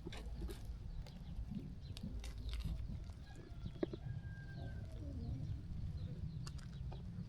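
Sheep-farm ambience: sheep moving and grazing, with scattered small clicks and rustles over a steady low rumble, and a faint thin bird whistle twice near the middle.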